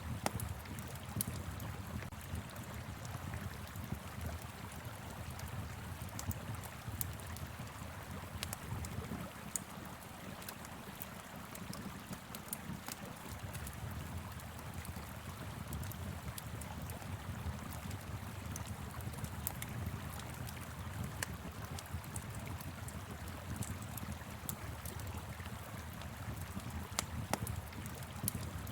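Steady rush of a flowing river, with a wood fire crackling over it in sharp, irregular pops.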